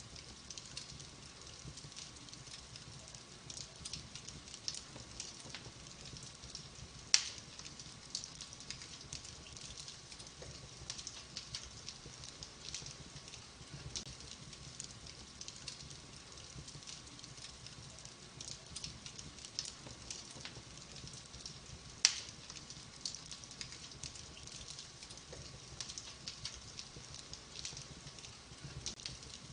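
Wood fire crackling in a fireplace: a steady stream of small crackles over a soft hiss, with two sharp, much louder pops, one about seven seconds in and another about twenty-two seconds in.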